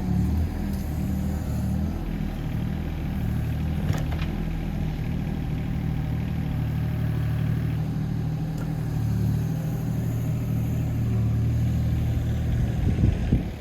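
Hitachi ZX18 mini excavator's diesel engine running steadily, its note shifting a little a few times, with a faint click about four seconds in and a few knocks near the end.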